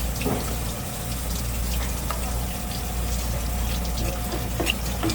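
Water running steadily, as from a tap or hose used to rinse fish, over a low steady hum, with a few small clicks and knocks.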